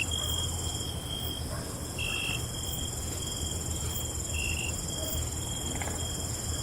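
Night chorus of crickets: steady high-pitched trilling, with short chirps coming every second or so, over a faint low rumble.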